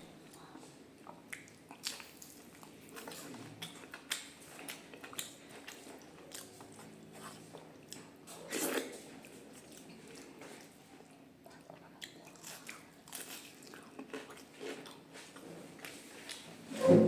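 A person eating close to the microphone: chewing and biting food, with short crisp crunching clicks.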